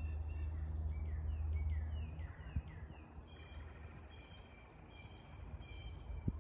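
Wild birds calling in the woods: a quick run of short, falling chirps, then a nasal call repeated a little more than once a second. A low rumble fills the first two seconds, and there is a sharp tap near the end.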